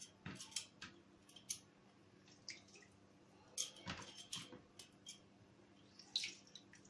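Lemons squeezed by hand over a bowl of water: faint, scattered squelches and drips of juice, with a cluster of them about three and a half to four and a half seconds in.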